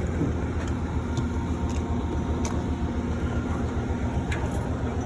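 Steady low rumble inside an Amtrak Northeast Regional passenger coach, with a few faint ticks.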